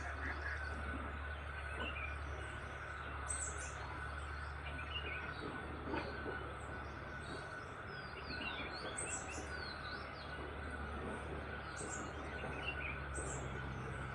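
Several birds chirping, short high calls every second or two, with a few downward-sliding whistled notes about halfway through. Underneath is a steady background hiss and a low steady hum.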